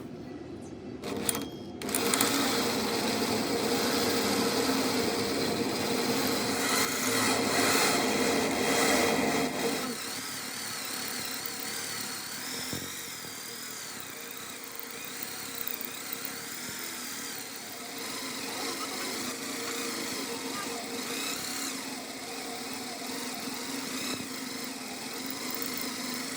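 A workshop power tool running steadily, louder for the first several seconds and settling a little about ten seconds in, with a faint wavering high whine.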